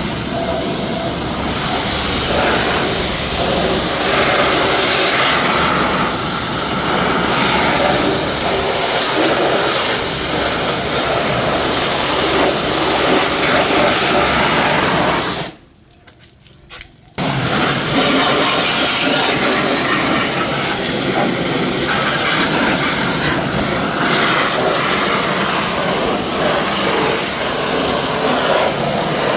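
Pressure washer spraying a car, a steady hiss of water jet that stops for about a second and a half midway, then resumes.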